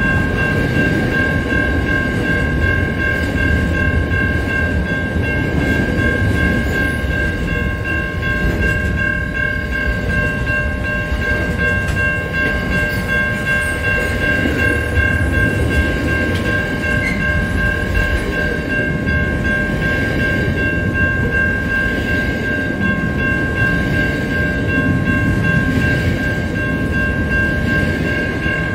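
Container freight train rolling past, its wagons rumbling steadily over the rails. A steady high-pitched whine runs over the rumble.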